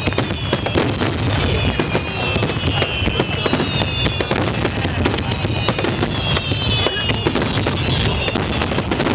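Fireworks display: a dense barrage of aerial shells bursting, with many sharp cracks over a steady low rumble. High whistles slide down in pitch three times.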